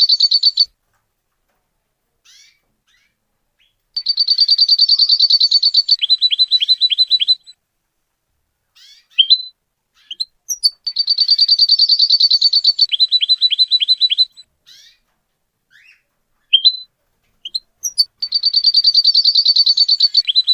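A canary singing: a long, fast high trill that breaks into a run of quick falling notes, the same phrase repeated three times about seven seconds apart, with short chirps in between.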